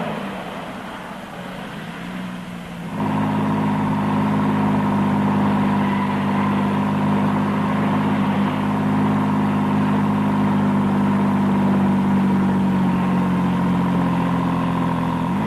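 Chevrolet Corvair Monza Spyder's turbocharged air-cooled flat-six engine running as the car drives. After a quieter stretch of road noise, a steady engine drone comes in abruptly about three seconds in and holds at even revs.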